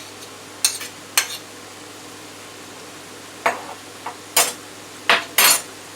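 Vegetables sizzling in oil in a frying pan, stirred with a utensil that scrapes and knocks against the pan about six times at uneven intervals, the last two strokes near the end the longest and loudest.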